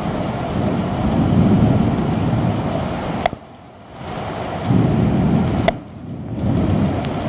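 Heavy rain hissing steadily, with thunder rumbling deep and low in two swells. Twice the sound drops away for under a second, each time after a sharp click.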